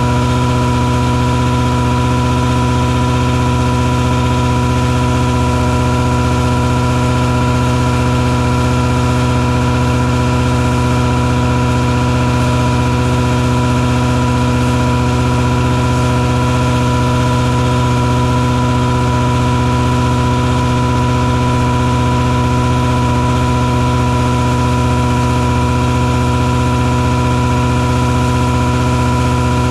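An engine on a mosquito-fogging truck running at a constant speed. It makes a steady, loud drone with several fixed tones that never change in pitch.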